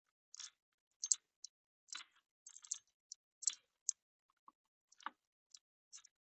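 Irregular light clicks and taps, about a dozen of them with short quiet gaps between, like small hard parts being handled.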